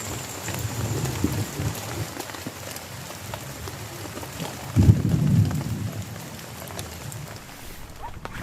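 Heavy rain falling steadily with scattered drop hits. A clap of thunder breaks in suddenly about five seconds in, a loud low rumble that fades within about a second.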